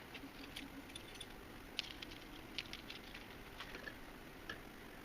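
Faint, scattered light clicks and small rattles of metal keys being handled and set into the key duplicator's clamps.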